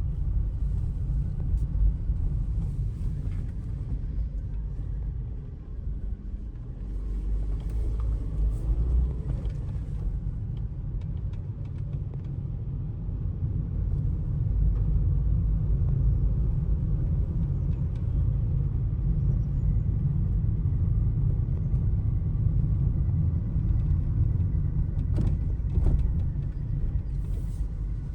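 A steady deep rumble that starts abruptly, with a few faint clicks near the end.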